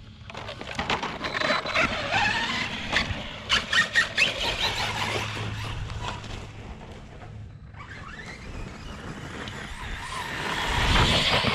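A 1/8-scale brushless RC basher truck running hard, its motor whining and its tyres scrabbling. A rapid series of knocks and clatter in the first few seconds is the truck landing and tumbling, and the drive sound swells up again near the end.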